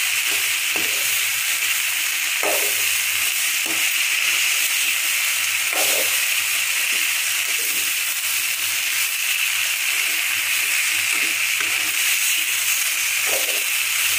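Chopped cabbage frying in oil in a metal kadai with a steady sizzle, stirred with a metal spoon that scrapes the pan now and then.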